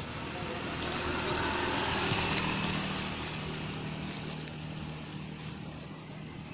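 Engine noise that swells to its loudest about two seconds in and then fades away, with a steady low hum, as of a motor vehicle passing by.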